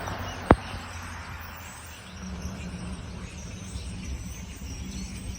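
Outdoor ambience: a low steady background rumble with faint high chirping, broken by a sharp knock about half a second in.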